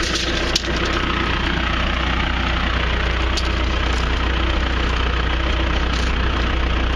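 John Deere 650J crawler dozer's diesel engine idling steadily, with one sharp click about half a second in.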